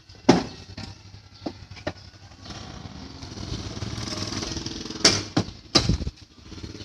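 Sharp knocks and clicks from hands working in a car's engine bay, about seven in all, with the loudest ones near the start and three close together a little after halfway, over a steady low engine-like hum.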